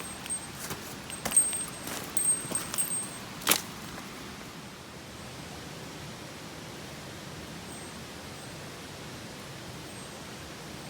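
Steady rushing of a mountain stream, with a handful of light clicks and knocks over the first few seconds, the last one sharpest.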